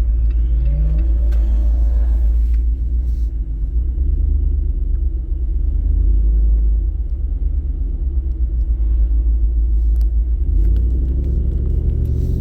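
Low, steady rumble of a Jeep's engine and road noise heard from inside the cabin as it drives.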